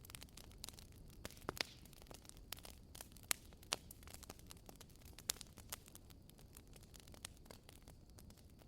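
Burning firewood crackling: irregular sharp snaps and pops, a few louder ones, over a faint steady hiss.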